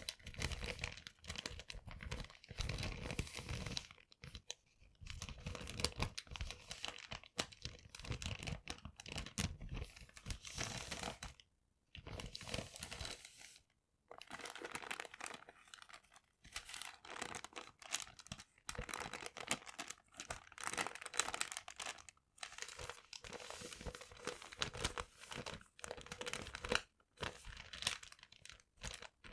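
Paper being crumpled and torn, a dense run of crackling rustles broken by a few brief pauses.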